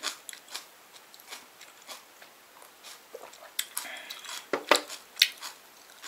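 Close-up eating sounds: quiet chewing, then a few sharp clicks of utensils against a dish in the second half.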